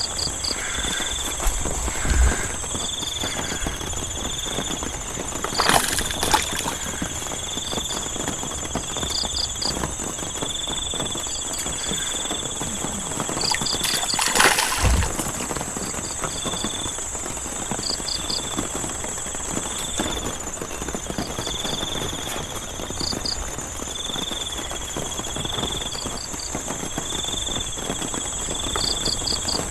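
Night chorus of insects and frogs over the steady hiss of heavy rain: a constant high-pitched insect drone, short pulsed chirps in groups of three to five, and a lower call repeating about every second and a half. Two louder bursts of noise break in, about a fifth of the way in and near the middle.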